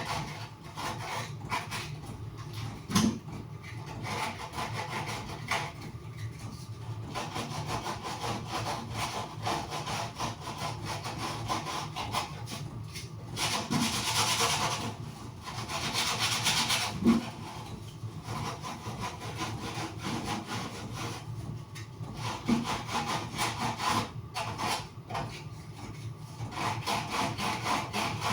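Sandpaper rubbed back and forth in quick strokes, smoothing the rough edge of a hole just cut with a hole cutter. The rasping is strongest for a few seconds around the middle, with a few knocks along the way.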